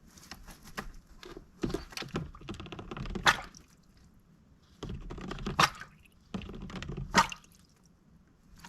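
Mallard drake dabbling in a water bowl: three bouts of splashing.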